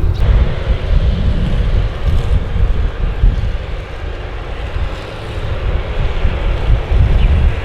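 Airliner's engines rumbling loudly close by, with deep low rumble; the sound eases about four to five seconds in and builds again toward the end.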